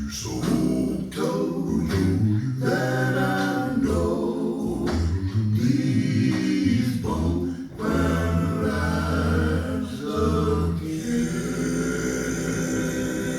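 A cappella male gospel vocal group singing in harmony with a deep bass voice, played back over Kroma Audio Mimi hi-fi loudspeakers.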